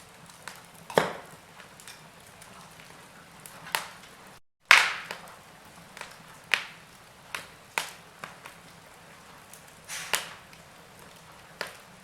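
Wood fire in a fireplace crackling, with sharp pops at irregular intervals over a faint steady hiss. The loudest pops come about a second in and right after the sound cuts out for a split second near the middle.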